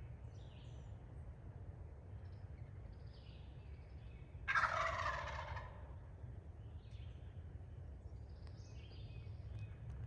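A male Eastern wild turkey gobbling once, about four and a half seconds in, a rattling call lasting about a second and a half. Small birds chirp faintly around it.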